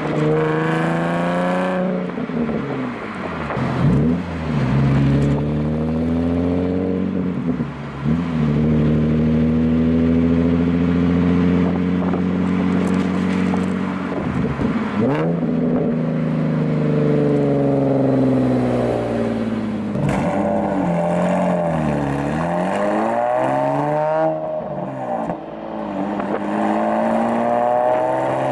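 Nissan VQ V6 with an aftermarket exhaust accelerating. The engine pitch climbs and then drops back several times, as at gear changes, with a steadier stretch in the middle.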